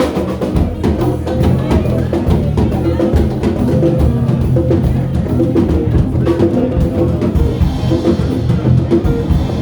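A band playing live, with the drum kit hitting a busy steady beat over low bass notes.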